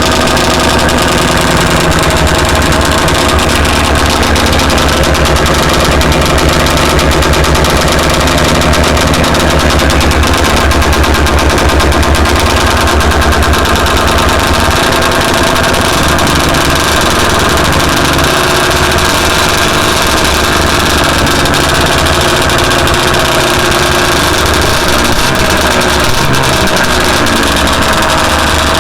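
Ski-Doo Blizzard 6500 Plus snowmobile's two-stroke engine running steadily with a rapid, crackling firing; the low end of the note shifts about halfway through.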